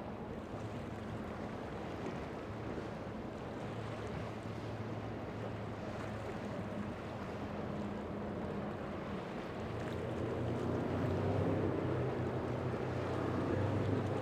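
A boat engine running steadily over wind and waves, growing louder about two-thirds of the way through.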